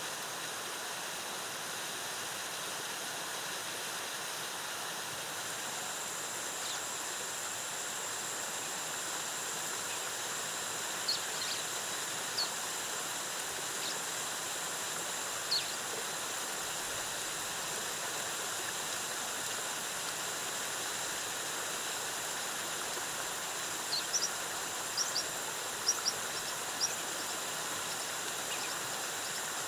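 Waterfall rushing steadily. A thin, high, steady tone joins about five seconds in, and short high bird chirps come now and then, most of them in a cluster near the end.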